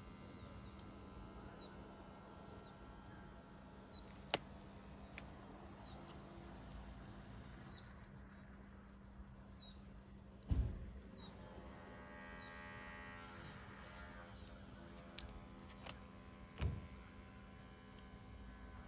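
Wood fire burning in a rusty can, giving a few sharp pops and cracks, the loudest about halfway through with a low thump. Behind it a bird repeats a short, high, falling call about once a second.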